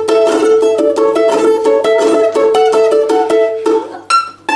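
Balalaika playing a quick folk melody over a held, rapidly re-plucked note. Near the end the tremolo stops and a few sharp separate chords are struck.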